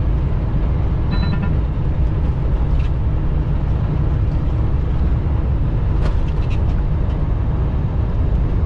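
Inside a semi-truck's cab at highway speed: a steady, loud, heavy drone of engine, tyres and wind, with a brief short tone about a second in.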